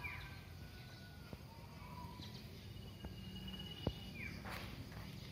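Faint rural outdoor ambience with distant birds calling: a few thin whistled notes and short falling calls, over a low steady rumble. A single sharp tap sounds just before four seconds in.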